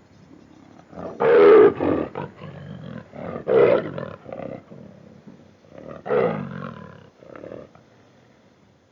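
Big cat roaring: three loud roars, about a second in, in the middle and about six seconds in, each trailing off into lower sounds, with a shorter, quieter one after the last.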